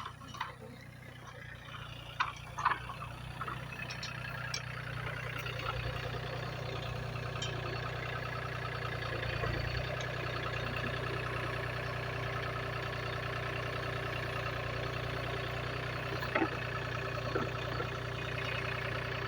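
Engine idling steadily, with a few light knocks about two seconds in and again near the end.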